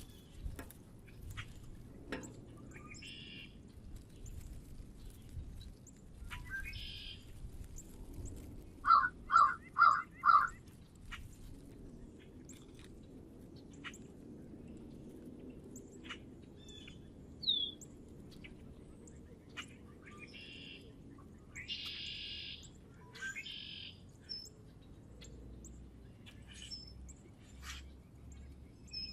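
Wild birds at a bird feeder: scattered short chirps and ticks, with four loud calls from a larger bird in quick succession about nine seconds in.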